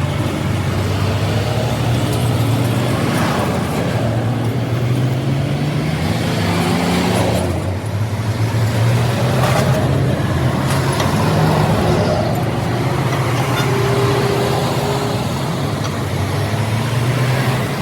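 A motor vehicle engine running steadily, its pitch rising slightly for a couple of seconds partway through.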